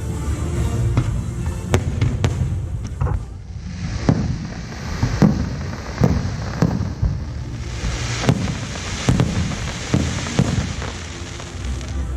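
Aerial fireworks shells bursting one after another in an irregular string of sharp bangs, with a crackling hiss from about four seconds in. Music plays underneath.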